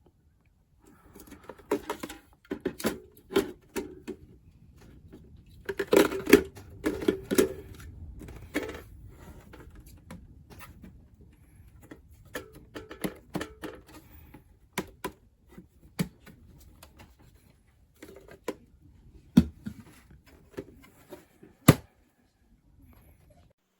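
Irregular clicks and knocks of hard objects being handled. The knocks bunch into a busier clatter about six to eight seconds in, and a sharp click comes near the end.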